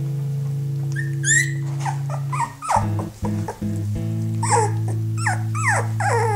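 Puppies whimpering and yipping in short, high, falling squeals: one about a second in, then more in a cluster in the second half. Background music with steady held notes plays throughout.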